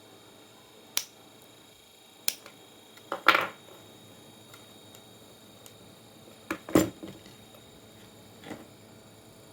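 Handling noise: a few sharp clicks and knocks at irregular intervals, the loudest about a third of the way in and again past two-thirds.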